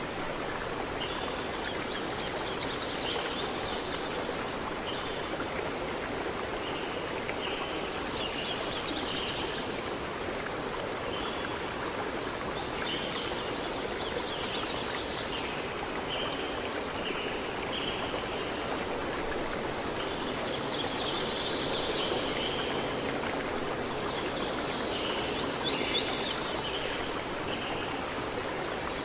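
A stream flowing steadily, with birds singing in short repeated phrases every few seconds over the water.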